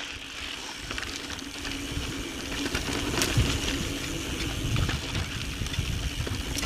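2017 Intense Tracer mountain bike riding over a dirt singletrack: tyres rolling over sandy, rocky ground with scattered clicks and rattles from the bike, and a low rumble of wind on the microphone.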